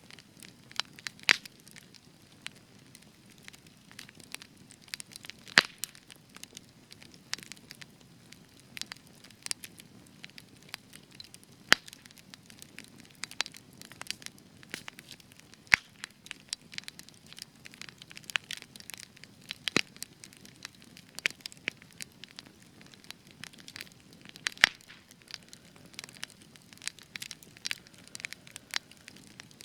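Spruce-wood campfire crackling: frequent sharp pops and snaps at irregular intervals over a soft low rush of flame.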